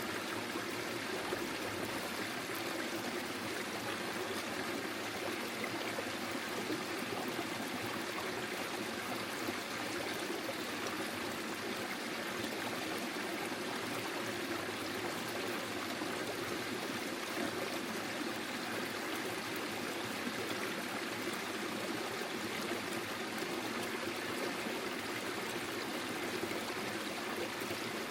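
Small forest stream flowing over stones, a steady babble and trickle of running water.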